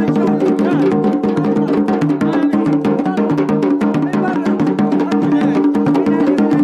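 Wedding procession music: drums, including Yemeni mirfa' drums, beating a fast, dense rhythm over a steady droning melody.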